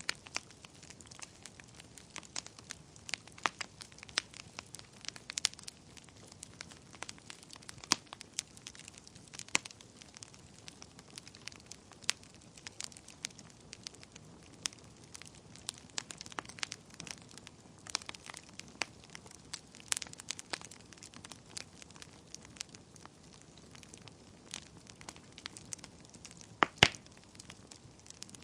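Wood fire burning in a fireplace: a steady stream of sharp crackles and pops over a low hiss of flame, with one loud pop near the end.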